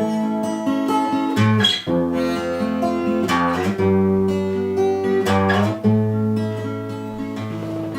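Acoustic guitar strummed as the instrumental close of a bard song, its chords changing every second or two.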